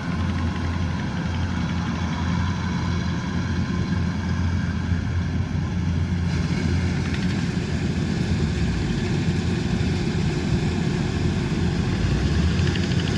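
Combine harvester engine running steadily under a continuous low hum, with no let-up or change in speed.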